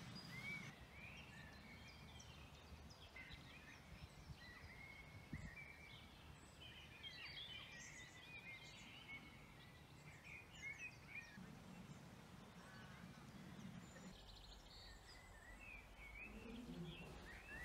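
Faint birdsong from several small birds: many short chirps and warbles over a quiet, low background.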